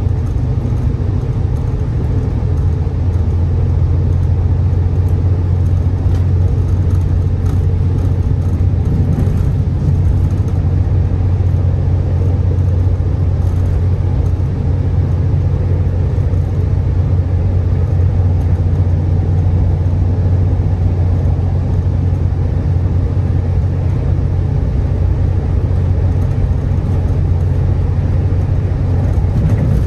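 Trinity Railway Express commuter train running along the line, heard from inside the passenger coach as a steady low rumble with no breaks or changes.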